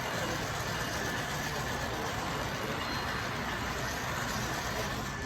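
Train rolling past, a steady rush of wheel and rail noise that cuts off suddenly at the end.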